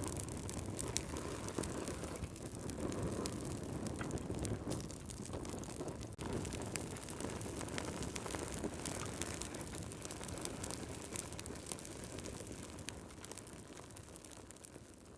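Wood fire crackling in a fireplace: a steady low rush of burning with many small sharp pops and snaps, fading out near the end.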